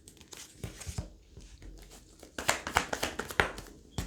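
Tarot cards being handled: a run of soft clicks, taps and papery rustles as the cards slide and are laid down, busier in the second half.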